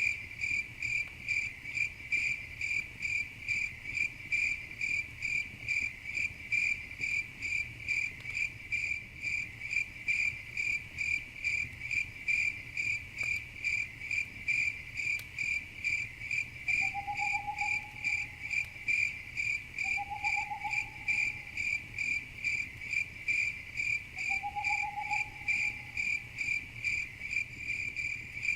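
Crickets chirping in a steady, even rhythm of a little over two high chirps a second. Three short, lower trilling calls from another animal come in over it in the second half.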